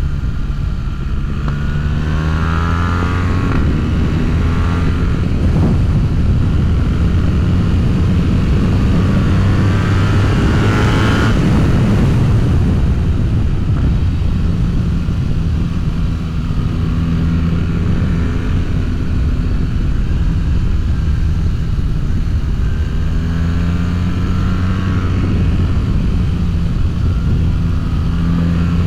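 BMW R1300GS boxer twin through an Akrapovic full exhaust system with decat mid-pipe, ridden hard: the engine note climbs in pitch and drops back several times as the bike accelerates and shifts, loudest about ten to twelve seconds in.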